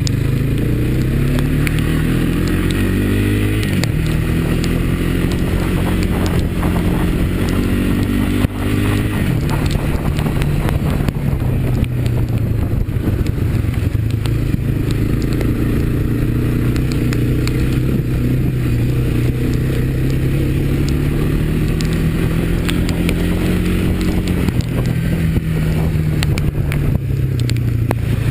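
Honda ATV's single-cylinder engine running under load. Its pitch climbs and drops suddenly about four seconds in and again about eight and a half seconds in, as with gear changes, then rises and falls more gently. Scattered clicks and knocks sound over the engine.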